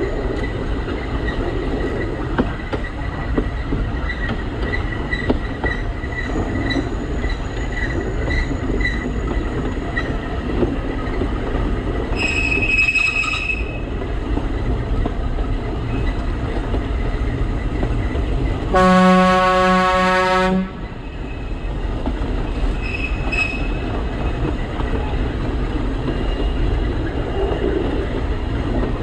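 Alishan Forest Railway narrow-gauge train running, with a steady rumble of wheels on the track and one long horn blast of about two seconds, two-thirds of the way through. Brief high-pitched squeals, likely from the wheels, come about twelve seconds in and again near the end.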